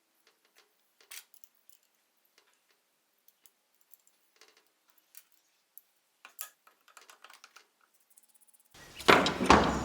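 Scattered light clicks and taps of small metal parts and tools being handled. Near the end comes a much louder clattering, scraping noise.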